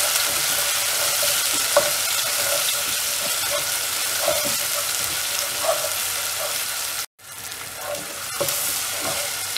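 Chopped onion and tomato sizzling in hot oil in a non-stick pot, with a wooden spatula scraping and knocking now and then as it stirs them. The sound cuts out suddenly for a moment about seven seconds in, then the sizzle comes back slightly quieter.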